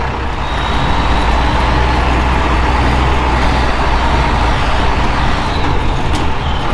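Cummins 6BT inline-six diesel of an old tow truck running steadily with a low drone as the truck pulls in slowly.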